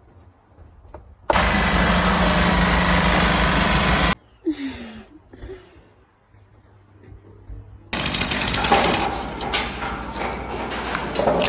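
Two loud bursts of rapid mechanical rattling over a steady hum. The first starts about a second in and cuts off abruptly after about three seconds; the second starts about eight seconds in and runs on noisier.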